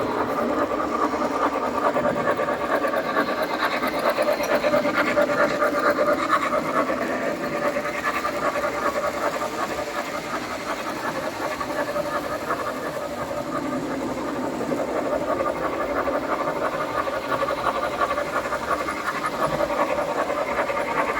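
O gauge three-rail model train running on its track: a steady, fast rattle of wheels over the rails with the hum of the motor.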